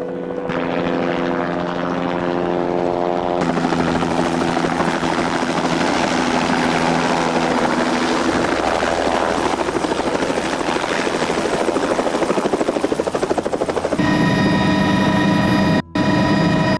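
Helicopter's rotor and engine running steadily, with a rhythmic blade throb. The pitch and mix shift abruptly a few times, with a brief dropout near the end.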